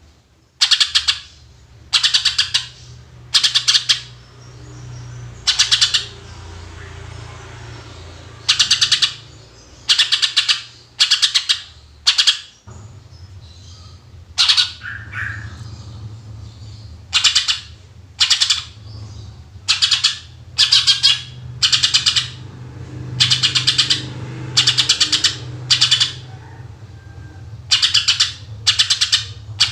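Cucak ijo (green leafbird) singing in loud 'tembakan' bursts: short strings of rapid, high chattering notes, repeated every one to two seconds. A steady low hum runs underneath.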